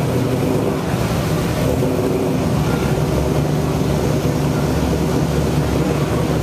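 Classic car engine running at low speed: a steady, low rumble with no revving.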